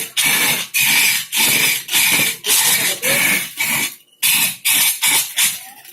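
Wood being cut or scraped by a hand tool in quick repeated strokes, about two a second, with a short break about four seconds in.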